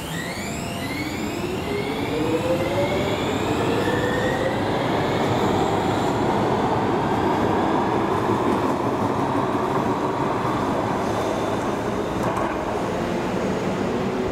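Bombardier MG2/1 metro train pulling away from the platform: the electric traction drive whines in several tones that rise in pitch through the first few seconds as it speeds up, then the steady rushing and rolling noise of the train takes over.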